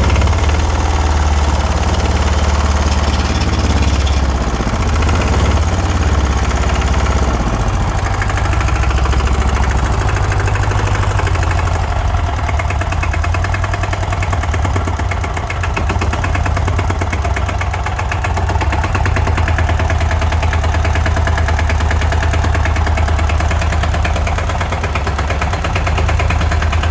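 Hatz E780U single-cylinder air-cooled diesel engine running steadily with an even firing beat.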